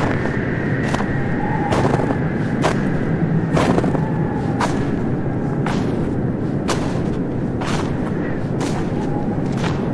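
Footsteps crunching in snow at a slow, even pace of about one step a second, over a steady hiss.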